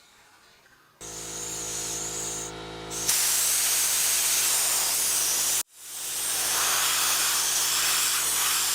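After a second of near quiet, a pressurised spray starts hissing over a steady motor hum. It gets louder about three seconds in, cuts off abruptly for a moment about five and a half seconds in, then builds back up and keeps hissing.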